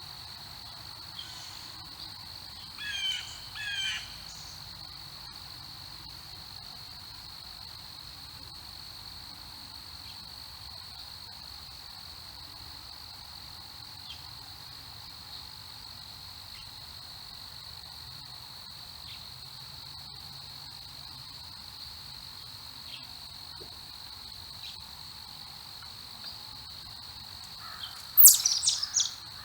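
Insects keeping up a steady high-pitched drone throughout, with a bird giving two short pairs of falling chirps about three seconds in. Near the end comes a loud flurry of sharp, high bird chirps.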